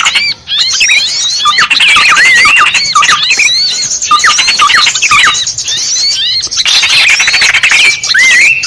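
Small-bird lure call recording: many small songbirds chirping at once, a dense, continuous chatter of rapid, looping high notes, with a brief break just after the start.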